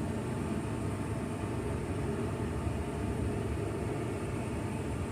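Truck's engine idling with the air conditioning blower running, heard from inside the cab: a steady low rumble under an even fan hiss.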